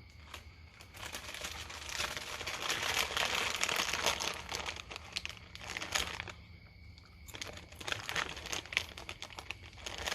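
Crinkling, rustling handling noise, heaviest for the first few seconds and then breaking into scattered crackles.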